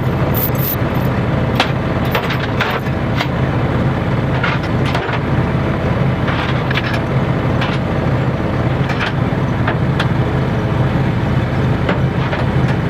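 Vehicle engine running steadily at idle, with scattered sharp clicks and knocks over it.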